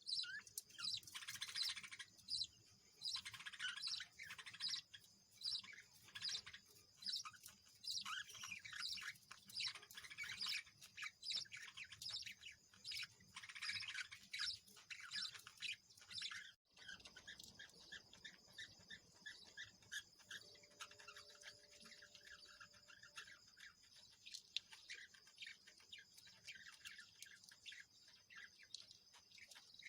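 Birds chirping and twittering in a rapid, busy stream of short high calls. After a sudden brief break a little past halfway, the chirping goes on softer and sparser.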